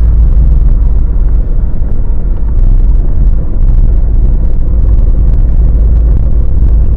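Lada Niva Legend driving, with a loud, steady low rumble.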